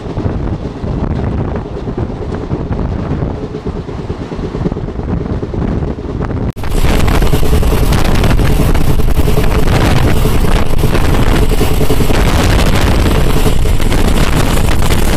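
A moving passenger train running at speed, with a dense rush of wind on the microphone over the low rumble of the coach. About six and a half seconds in, the sound breaks off for an instant and comes back louder and brighter.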